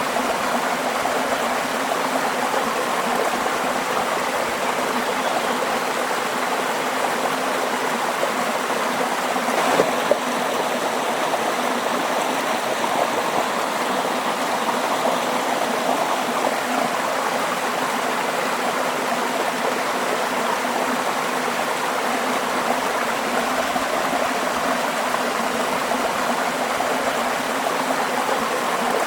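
Running water flowing steadily, an even rushing sound, with one brief louder blip about ten seconds in.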